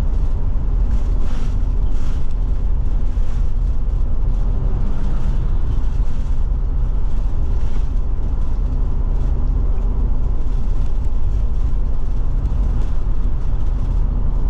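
Steady road and engine noise inside the cab of a Forest River Forester motorhome cruising at about 45 mph, with a heavy low rumble.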